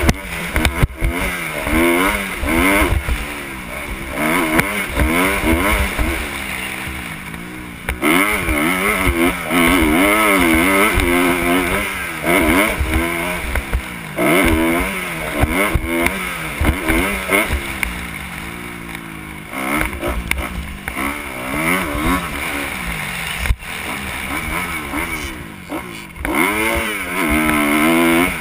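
Kawasaki KX 250 motocross bike engine at race pace, its pitch rising and falling again and again as the rider accelerates, shifts and backs off, with wind rumble on the helmet-mounted microphone.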